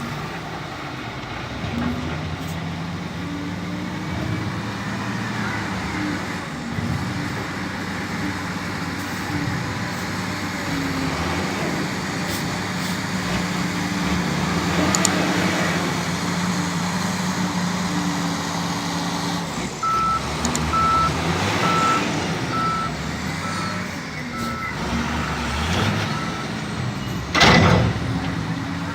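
Heavy diesel machinery running with a steady drone. A reverse alarm beeps in a regular on-off pattern briefly at the start and again for several seconds about two-thirds through. A loud, sudden burst of noise comes near the end.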